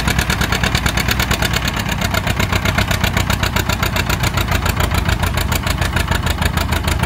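Antique farm tractor engine running steadily, its exhaust beating in an even rhythm of about ten pulses a second.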